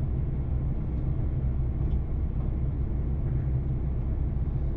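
Steady low rumble of a JR Shikoku 2700 series diesel railcar running, heard from inside the passenger cabin as it approaches its station stop.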